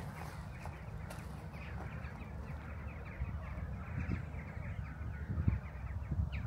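Outdoor ambience: many short, falling bird chirps over a steady low rumble, with a few soft low thumps about four and five and a half seconds in.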